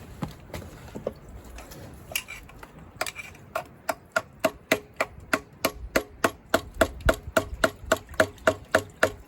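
A hammer tapping on the front timing cover of a Case 188D diesel engine to drive it evenly off its dowel pins: a few scattered knocks, then from about three seconds in a steady run of sharp metallic taps, about three a second, each with a short ring.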